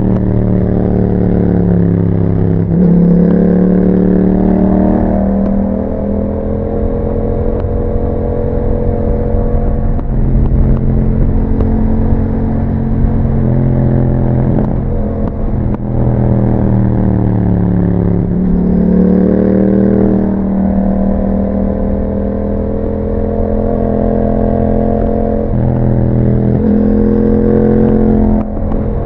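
Yamaha MT-07 parallel-twin engine running through an Akrapovic exhaust with a dB killer fitted, on the move. The engine note rises and falls with the throttle, broken by several gear changes.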